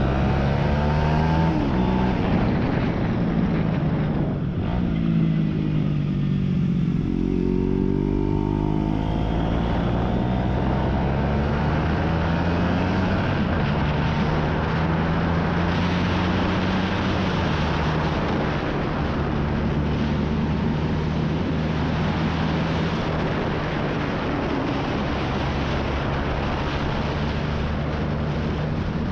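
Aprilia RS4 125's single-cylinder four-stroke engine running through a Scorpion aftermarket exhaust. Its pitch climbs twice in the first eight seconds as the bike accelerates, then holds nearly steady.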